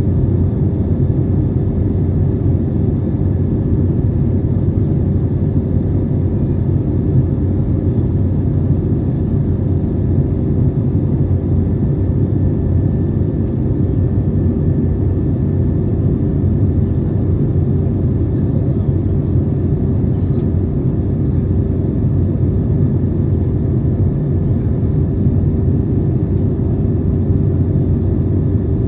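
Steady cabin noise of an airliner in flight: an even low rumble of engines and rushing air, with a faint steady hum on top, unchanging throughout.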